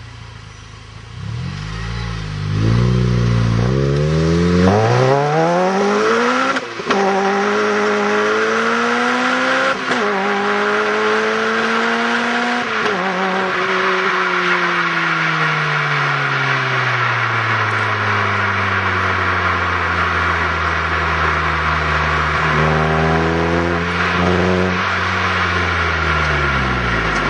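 Honda Civic Type R's four-cylinder engine through an HKS Hi Power 409 exhaust, accelerating hard: the note climbs, drops sharply at each of three quick gear changes and climbs again. It then falls slowly for a long stretch as the car slows, rises briefly near the end, and settles to a steady note.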